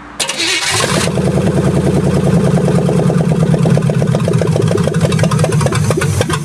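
Chevrolet small-block V8 cranking and catching within the first second, then running loud with a fast, even pulse on bare exhaust manifolds with no pipes or muffler fitted. It is a cold start with the choke on, and the sound drops off just before the end.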